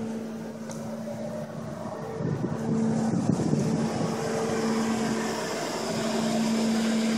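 Ford Crown Victoria police car's V8 engine idling steadily with an even hum, left running unattended. A louder rush of noise comes and goes between about two and four seconds in.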